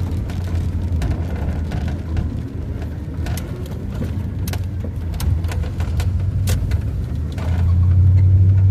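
1992 Dodge B250 van driving, its engine giving a steady low drone that grows louder near the end as it pulls harder, with scattered light clicks and rattles over it.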